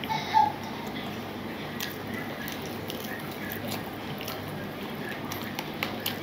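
Eating by hand: chewing and lip-smacking mouth noises, with soft wet squishes of fingers kneading rice and curry, over a steady low background hum. A sharp smack about half a second in is the loudest sound, with a few more small clicks spread through the rest.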